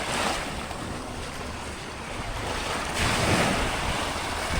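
Ocean surf washing onto the beach, with wind rumbling on the microphone; the surf swells louder about three seconds in.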